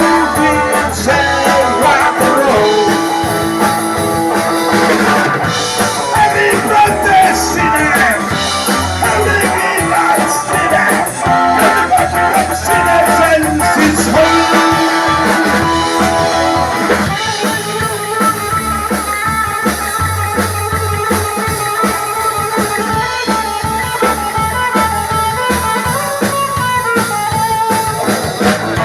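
Live rock and roll band playing: electric guitar, bass and drum kit, with a male singer's vocal.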